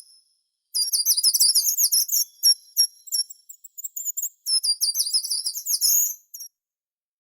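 A songbird singing rapid, high-pitched chirping phrases in several quick bursts, breaking off shortly before the end.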